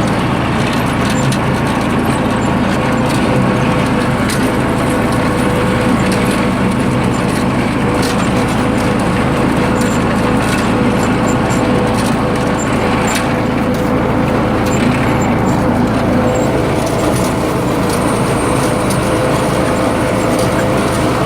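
Snapper rear-engine riding mower with a Briggs & Stratton engine running steadily while being driven, with scattered clicks and knocks from the machine. The owner blames these noises on Snapper's build rather than the engine.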